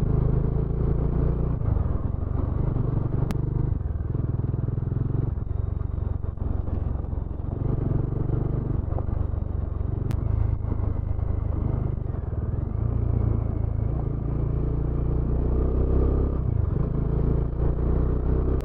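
Motorcycle engine running while riding, its note rising and falling in steps as the revs change.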